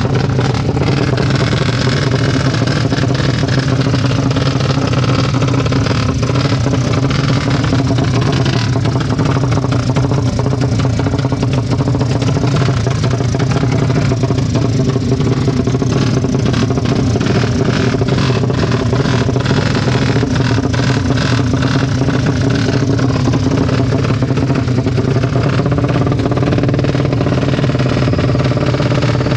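Racing motorcycle engine running loud and steady, its pitch held level with no rising run through the gears.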